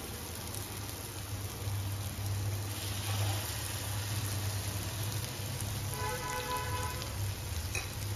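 Malpua batter frying in hot desi ghee in a flat pan: a steady, even sizzle, with a low steady hum beneath it.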